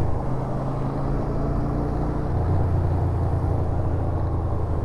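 Yamaha SRV250's air-cooled V-twin engine running under way, with a steady low engine note and wind noise; the engine note shifts about halfway through.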